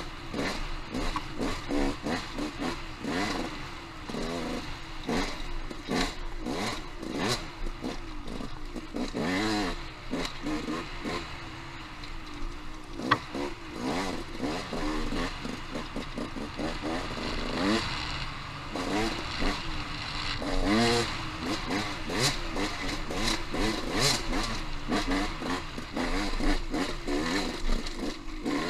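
Dirt bike engine revving up and down, its pitch rising and falling constantly as it is ridden over rocky singletrack, with frequent knocks mixed in.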